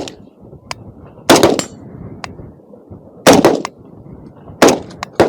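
Gunfire: about five loud single shots, spaced irregularly a second or two apart, with fainter, more distant shots in between.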